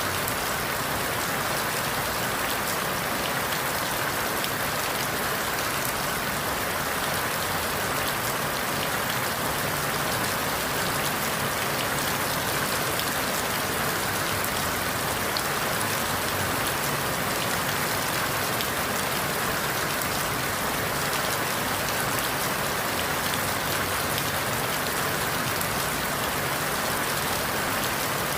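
Steady rain falling on forest leaves: an even hiss with scattered drop ticks.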